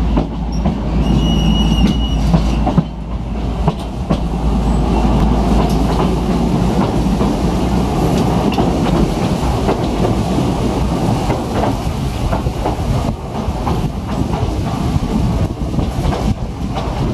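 Oigawa Railway Ikawa Line passenger train pulling away and running across a bridge, heard from the open end of a carriage: a steady rumble of the running gear with repeated clicks of wheels over rail joints. A brief high tone sounds about a second in.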